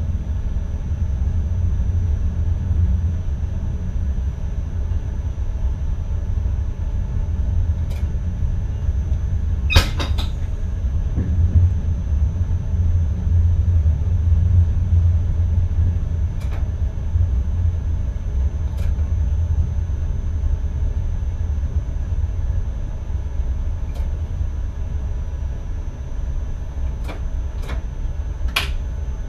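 Cab of an NS ICM electric multiple unit running along the track: a steady low rumble with a faint steady high tone. Occasional sharp clicks sound over it, the loudest about ten seconds in and another near the end.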